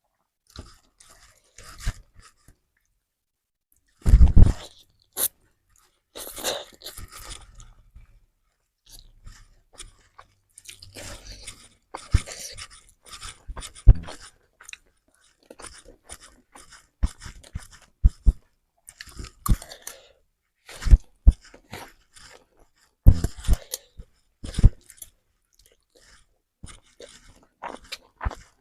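Close-miked chewing of fried instant noodles and rice, going on irregularly throughout, with many sharp clicks in between; the loudest burst comes about four seconds in.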